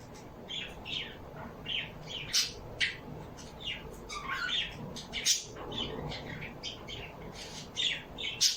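Several small birds chirping and squawking in a busy run of short, high calls, with a few sharp, louder squawks about two and a half seconds in, about five seconds in, and near the end.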